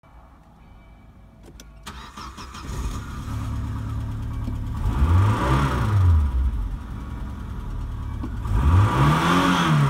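Audi 80 B4's 2.0-litre ABT four-cylinder petrol engine starting after a few clicks about two seconds in, then running at idle. It is revved twice, each time rising and falling back to idle.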